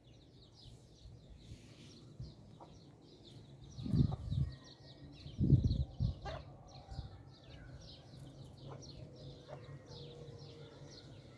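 Birds chirping continuously, with a few loud dull thumps about four to six seconds in.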